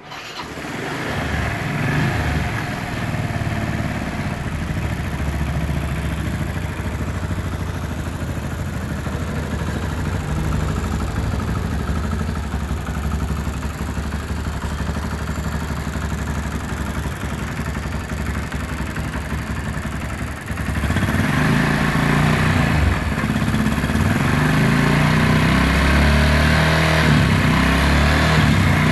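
Motorcycle engine running on an HHO hybrid gasoline-vapor carburetor: it starts at once and runs steadily, then about twenty seconds in the sound dips briefly and comes back louder.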